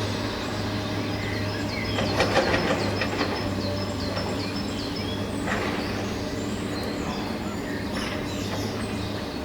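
Toy construction vehicle's small electric motor and gears running with a steady low hum, with a short rattling clatter about two seconds in. Birds chirp in the background.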